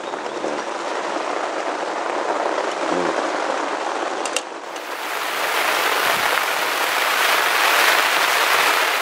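Heavy rain falling steadily. About four and a half seconds in, the sound changes abruptly and becomes louder and brighter, swelling and then easing off near the end.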